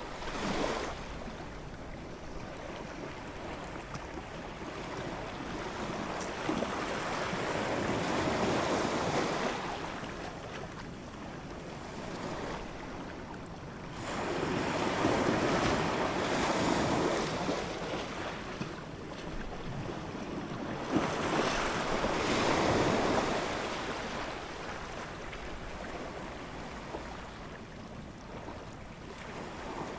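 Ocean surf: waves breaking and washing in, swelling and drawing back in three slow surges.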